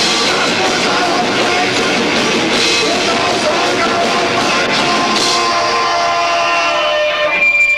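Live rock band with two drummers playing loud and dense, heard lo-fi through a 1990s camcorder microphone. About seven seconds in the full band drops out, leaving a few held notes ringing.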